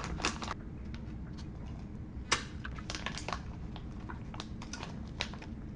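Light crinkling and scattered small clicks from handling plastic food packets, with one sharper click about two seconds in.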